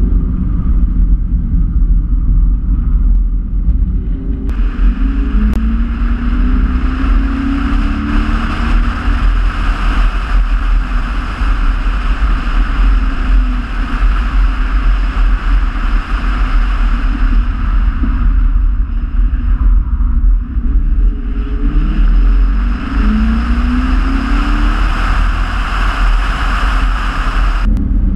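Car engine under hard driving, rising in pitch as it accelerates twice and easing off between. A steady rushing noise lies over it through long stretches and cuts off suddenly near the end.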